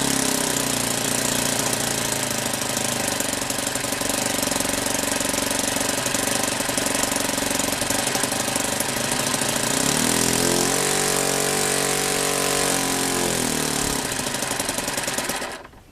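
OS FS40 four-stroke model aircraft glow engine running steadily on a home-made replacement piston ring, with no power on the glow plug. About ten seconds in its pitch rises for some three seconds, then falls back, and it cuts off suddenly near the end.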